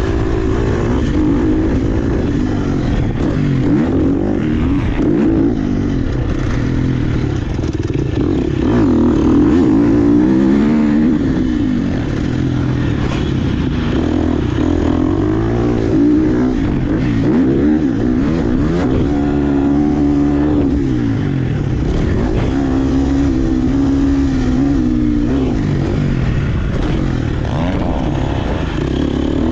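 Dirt bike engine revving hard and backing off over and over, its pitch climbing and dropping every second or two as the bike is ridden around a motocross track, with rattling from the bike underneath.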